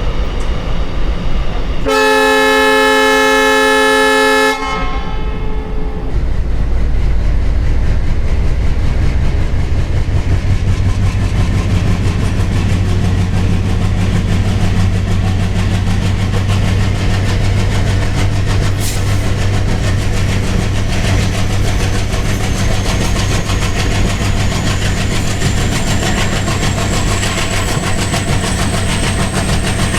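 WDM3A diesel locomotive sounding its horn once for about two and a half seconds, then its ALCO 251 sixteen-cylinder turbocharged engine running with a steady low chugging hum. In the last third a thin high whine slowly rises in pitch over the engine.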